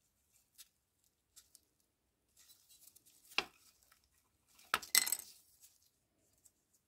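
Small hard objects being handled: a few faint ticks, a sharp clink about three and a half seconds in, then a louder quick clatter of clinks near five seconds.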